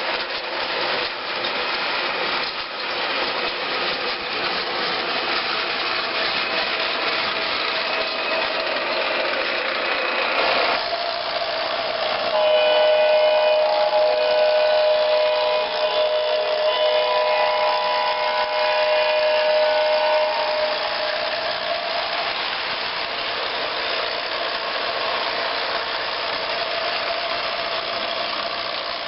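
A train running past with a steady rumble, its locomotive horn sounding a held chord for about eight seconds starting about twelve seconds in, with a brief dip in the middle.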